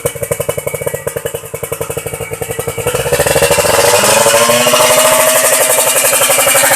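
Kawasaki Ninja R's two-stroke single-cylinder engine through a bamboo racing exhaust, running with a choppy, pulsing idle, then revved up from about three seconds in and held at high revs.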